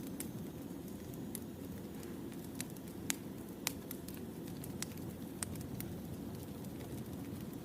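Wood fire burning: a steady low rumble of flames with sharp crackles and pops scattered through, several louder pops around the middle.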